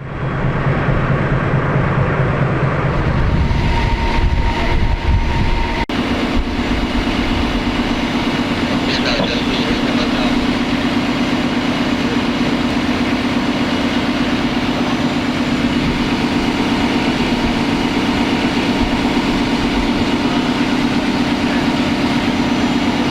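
Heavy engine running with a steady, unchanging drone. About six seconds in there is an abrupt change from a lower, rougher rumble to this steadier drone.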